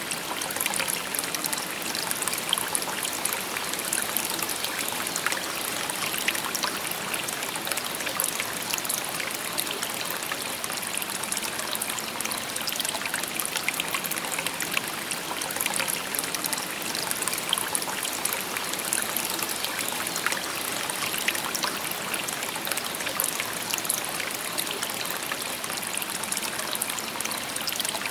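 A shallow stream babbling steadily over stones, a continuous bright trickling and splashing.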